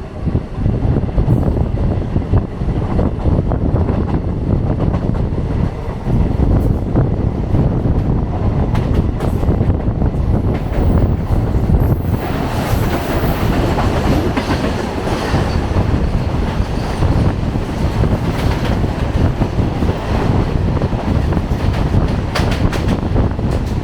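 Freight train passing close by: a steady rumble of wagon wheels on the rails, with repeated clicks over the rail joints. The sound turns brighter and harsher about halfway through.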